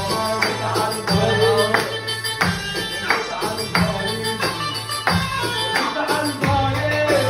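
Live Egyptian shaabi band music with no singing: drum hits about every two-thirds of a second over a held bass note, with a wavering melody line above.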